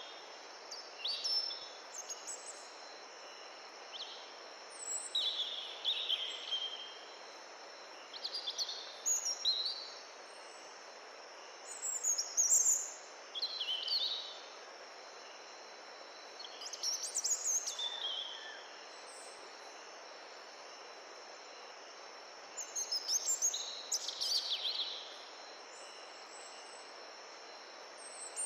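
A songbird singing short, bright phrases every few seconds over the steady rush of a mountain stream.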